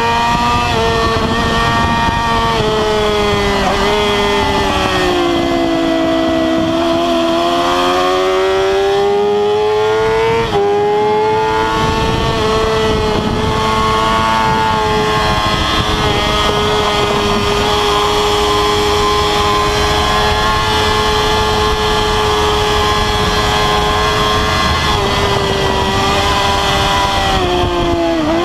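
Inline-four sportbike engine at high revs, heard onboard at track speed over heavy wind rush. The engine note sags and climbs in the first few seconds, drops sharply about ten seconds in, then holds steady for a long stretch before easing off near the end.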